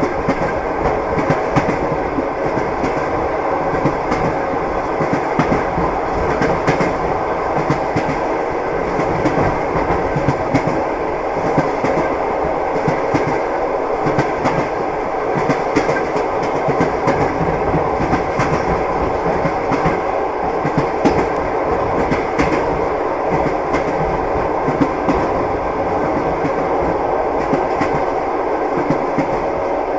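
Train wheels clacking over the rail joints, with the steady rumble of a moving railway carriage and a continual light clatter.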